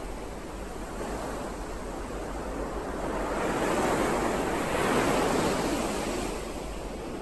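Ocean waves: a steady wash of surf, with one wave building to a peak about four to five seconds in and then easing back.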